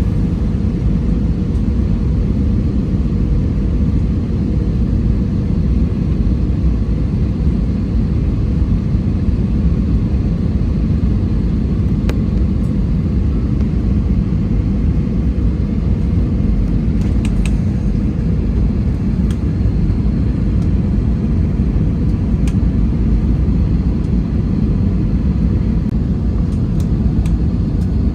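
Steady low rumble of an airliner's engines and rushing air, heard from inside the passenger cabin, with a faint steady hum and a few light clicks.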